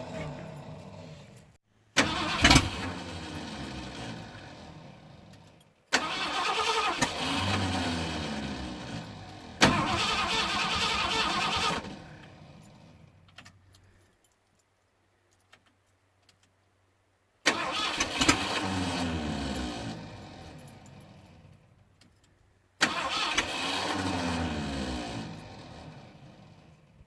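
A 1979 Ford F-150's 351M V8 being cranked over again and again in several separate attempts, each starting abruptly and fading away. The engine does not catch and run: the starter is slipping and not engaging properly.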